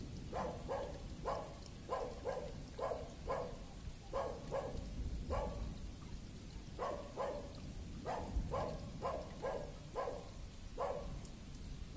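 A dog barking over and over, short barks often coming in quick pairs, over a steady low rumble.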